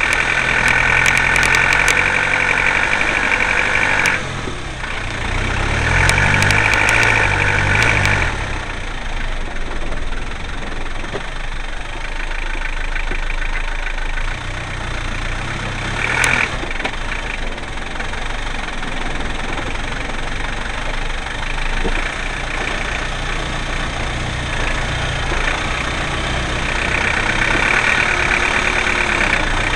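Land Rover engine running while the vehicle crawls over rough off-road ground, the revs rising and falling, with a louder, higher droning whine during three hard pulls, near the start, about a quarter of the way in and near the end. A single sharp knock sounds just past halfway.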